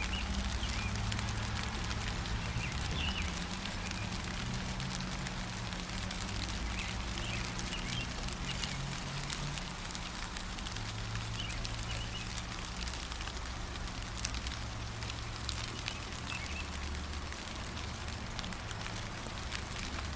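Gentle steady rain with many separate drops ticking, and short bird chirps every few seconds over a low steady rumble.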